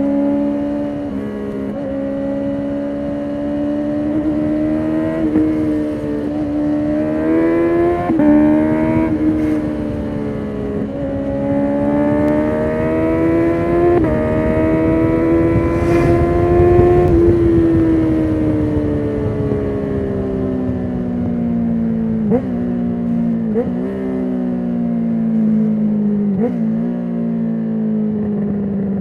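2019 Honda CB650R's inline-four running through an Akrapovic full titanium exhaust with the dB killer removed. Over the first half it pulls harder and harder, with several quick pitch drops as the quickshifter clicks up through the gears. After that the revs fall away on the overrun, with three short rev blips on downshifts near the end.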